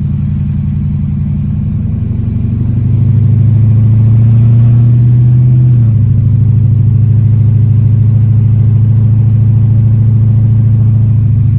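LS V8 engine in a G-body Oldsmobile Cutlass, running as the car is driven. It pulls louder and a little higher about three seconds in, steps down slightly around six seconds, then holds steady.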